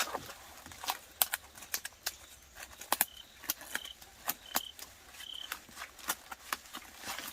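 Irregular sharp clicks and knocks, with four short high notes, evenly pitched, from about three seconds in to about five and a half.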